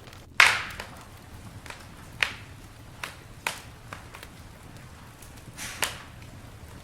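Campfire crackling, with sharp pops from the burning wood over a low hiss. The loudest pop comes about half a second in, and a few smaller pops follow every second or two.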